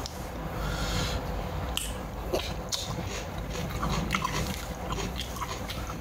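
Close-up eating sounds: biting and chewing, with many small scattered crunchy clicks, typical of eating crab.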